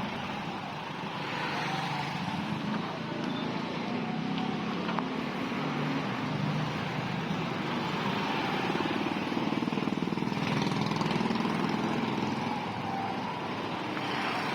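Road traffic noise: motor vehicles running close by, a steady rumble and hiss that grows louder toward the middle and eases off near the end.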